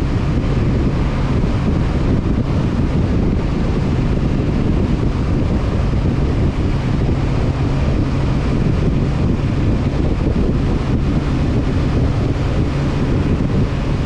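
Honda CB500F parallel-twin engine running at a steady speed under heavy wind noise on the microphone.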